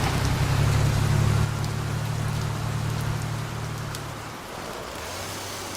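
Steady rain hiss with a low, steady hum underneath that fades out about four seconds in.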